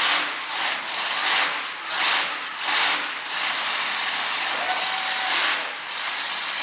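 Monster truck engine revving hard in repeated throttle surges, rising and falling about once or twice a second.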